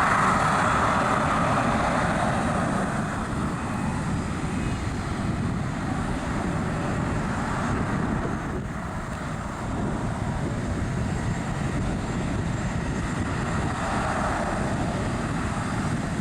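Jet engine noise from a Boeing 737-700's CFM56-7B turbofans just after takeoff, a steady, dense roar as the airliner climbs away. It is loudest in the first couple of seconds, then eases slightly and holds steady.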